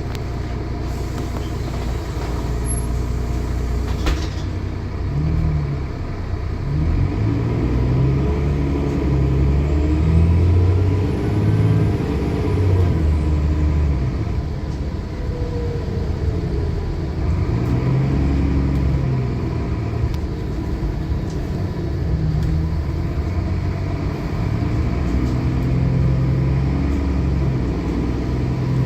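Diesel bus engine pulling and easing off, its pitch rising and falling, with a faint turbocharger whistle that rises and then falls about ten seconds in. There is a single sharp click near the start.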